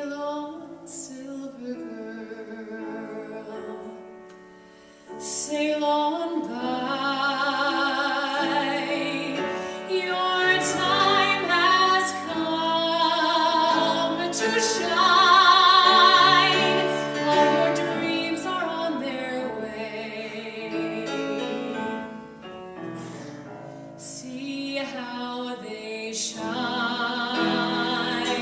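A woman singing in an operatic style with strong vibrato, accompanied by piano. The song starts softly, grows fuller about five seconds in, and swells to a loud high passage near the middle.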